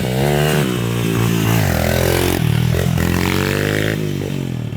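A 140 cc pit bike's single-cylinder engine revving, its pitch falling, dipping about halfway through, then rising and falling again.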